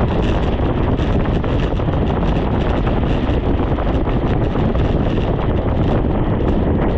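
Steady, loud wind rush over the microphone from riding a bicycle at speed, with no pauses or distinct knocks.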